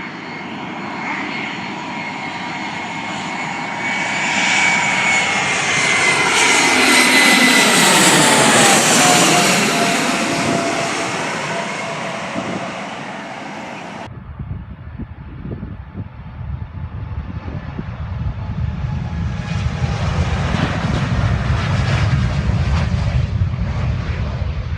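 An airplane passing close by: engine noise with a high whine that swells, drops in pitch as the plane goes past, and fades. About fourteen seconds in it cuts abruptly to another airplane's lower, rumbling engine roar, which builds up again toward the end.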